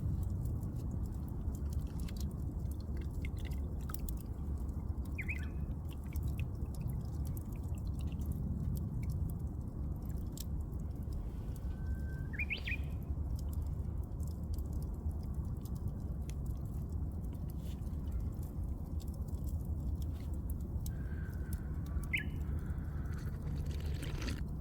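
Japanese bush warbler singing: a short call about five seconds in, then two songs, each a held whistle sweeping up into a quick rising flourish. Under it a steady low rumble and scattered faint crackles.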